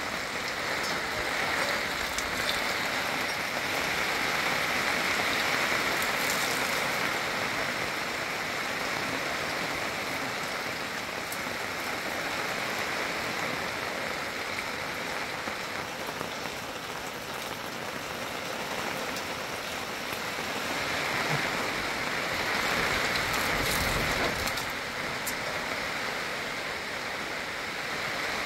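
Steady rain falling on a plastic-sheet roof, a little louder for a few seconds near the start and again near the end.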